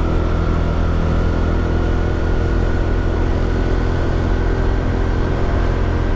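Honda PCX scooter's single-cylinder engine running steadily at cruising speed, with a faint whine that eases slowly down in pitch.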